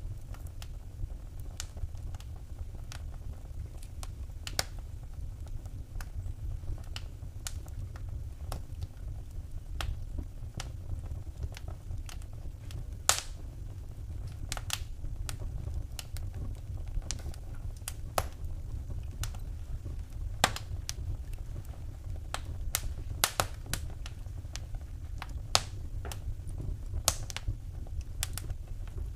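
Wood fire in a fireplace crackling: irregular sharp snaps and pops, a few much louder than the rest, over a steady low rumble of the flames.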